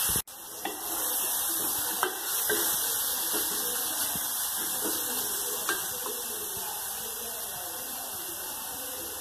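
Sliced onion and ginger-garlic-green chilli paste sizzling in oil in a pressure cooker, stirred with a wooden spoon that knocks lightly against the pot a few times.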